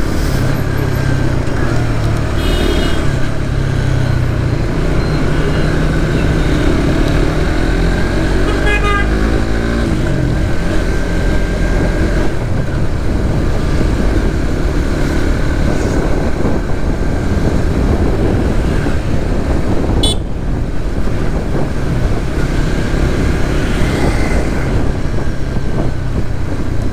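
Suzuki GSX-S150's single-cylinder engine running steadily while riding through city traffic, with a constant rush of road noise. Vehicle horns toot briefly about three seconds in and again about nine seconds in.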